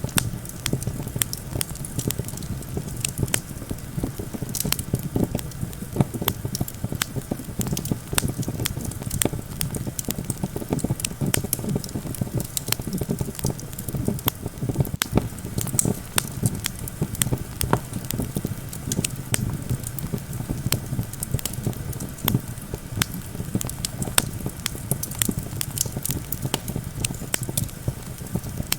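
Campfire crackling, with frequent irregular sharp pops, over a steady low rush of wind.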